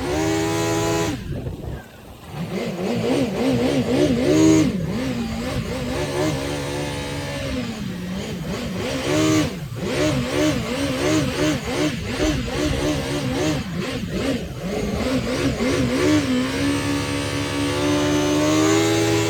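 Yamaha 1100 jet ski engine revving up and down, its pitch wavering rapidly as the throttle changes. It dips briefly twice and settles at a steady higher speed near the end.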